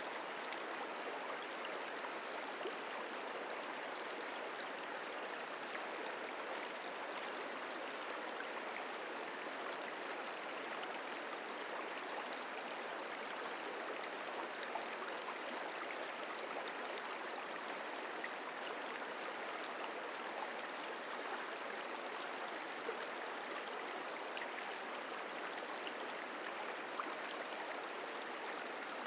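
The Merced River flowing: a steady, even rush of running water with faint small splashes.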